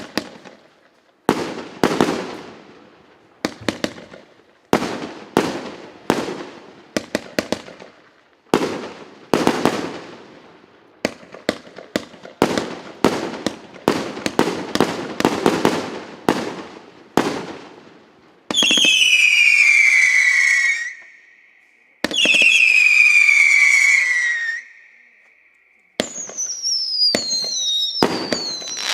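RC894 multi-shot consumer fireworks cake firing. A fast run of shots, each bursting with a sharp bang that rings off, comes at about one to two a second. About two-thirds of the way in, two long whistles each glide down in pitch for a couple of seconds, and near the end more falling whistles sound among bangs.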